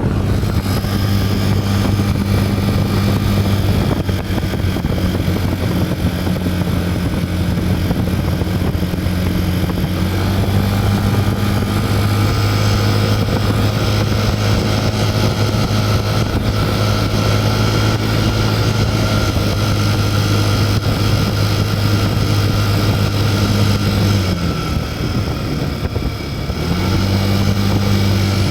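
Yamaha Cygnus-X fourth-generation scooter's 125 cc single-cylinder engine running steadily with an abnormal engine noise. A thin higher whine joins about ten seconds in. Near the end the engine note sags briefly, then picks back up.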